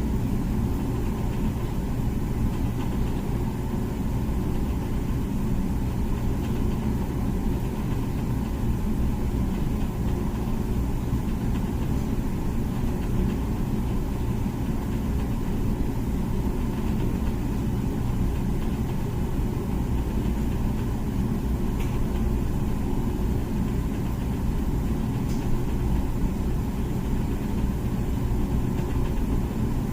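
Comfee dishwasher running mid-cycle: a steady low hum of its pump motor with the rush of circulating water.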